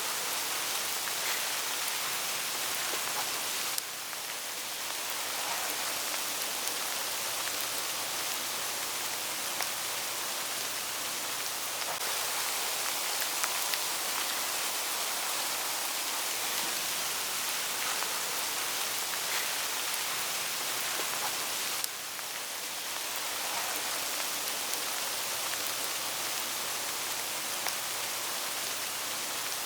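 Hail falling on autumn forest foliage: a steady, dense hiss of many small hits on leaves, with brief dips in level about four seconds in and again around twenty-two seconds.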